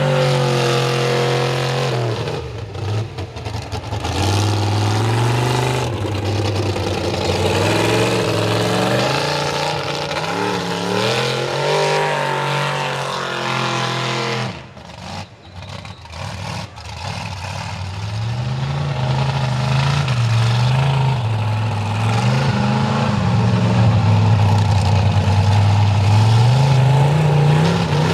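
Mega truck engine revving hard in a mud bog, its pitch climbing and falling again and again, with a short choppy lull about halfway through before it revs back up.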